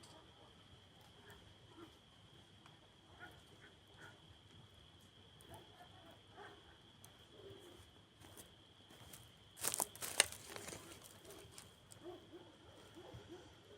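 Wood campfire crackling softly with scattered small pops, then a louder flurry of sharp cracks about ten seconds in.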